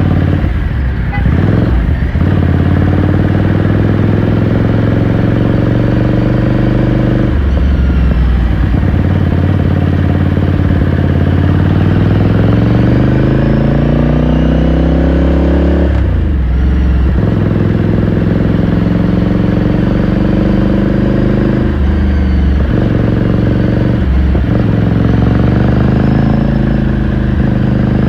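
2018 Ducati Scrambler Sixty2's air-cooled 399 cc L-twin engine and exhaust under way, the note climbing steadily as the bike accelerates. The note breaks off briefly several times, a gear change at each break, then climbs again.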